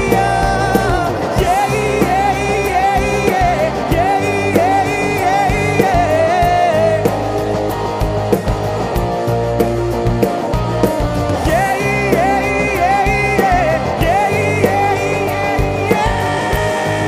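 Live rock band playing, with drums, bass, guitar and singing; short melodic phrases repeat over a steady beat.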